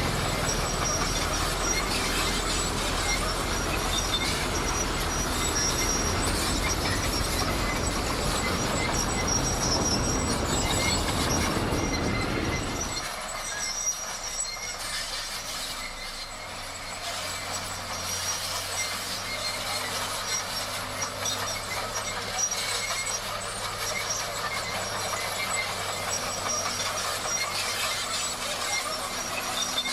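Crawler bulldozer at work, its diesel engine running and its steel tracks squealing and clanking. A little under halfway through, the deep engine sound drops away abruptly, leaving quieter machine noise.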